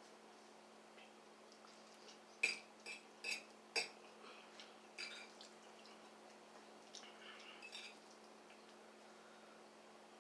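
Eating utensil clinking against a bowl of noodles: four or five short light clinks in quick succession, then a few fainter ones.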